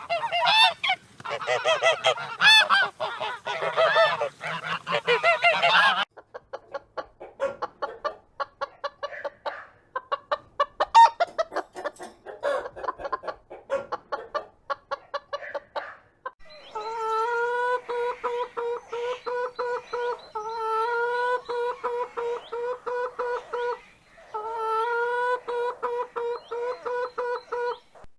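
A run of separate bird calls in turn, of the farm-fowl kind. First loud honking calls, then a quicker, choppier series of clucking calls, and in the last third a fast, even pulsing call held on one pitch, broken once by a short pause.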